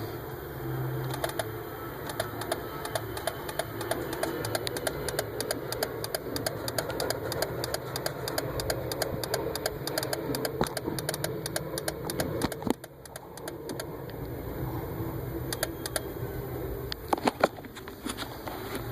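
Rapid, uneven clicking from the flasher circuit of a 2001 Daihatsu Terios, over the steady hum of the engine running. It is a clicking noise whose cause the owner cannot find.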